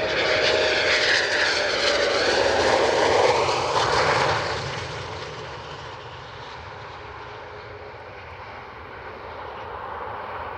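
Eurofighter Typhoon jet engines, loud at first with a faint falling whine, then fading sharply about four seconds in as the jet moves away, leaving a lower steady rumble.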